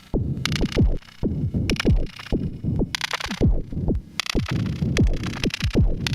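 Erica Synths Perkons HD-01 drum synthesizer playing an electronic drum pattern: low kicks that drop quickly in pitch, several a second, with noisy hat- and snare-like hits on top.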